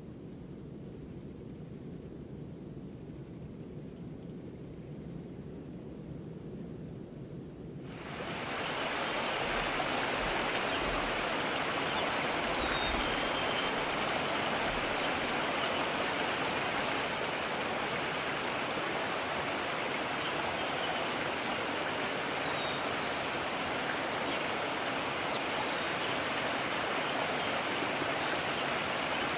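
Mountain stream rushing steadily, cutting in suddenly about eight seconds in after a quieter stretch of low rumble and a high, thin hiss. A few faint chirps sound over the water.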